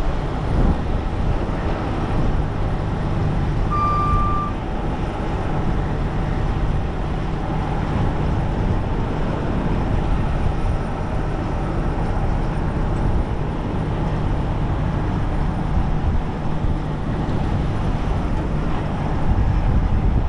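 Strong wind noise buffeting the microphone over a heavy truck's diesel engine running steadily. One short, high-pitched beep sounds about four seconds in.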